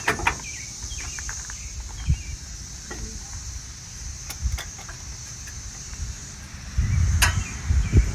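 Scattered light clicks and knocks of metal parts being handled as an alternator is worked loose and pulled off an engine, the sharpest knock about seven seconds in. Insects drone steadily at a high pitch underneath.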